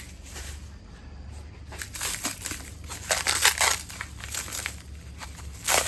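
Packaging wrap crinkling and tearing in irregular crackly strokes as the parts are unwrapped by hand, with the loudest crackle near the end.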